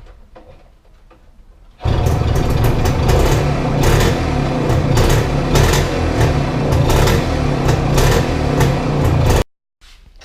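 Loud machine noise with a dense, rapid rattle, starting about two seconds in and stopping abruptly near the end.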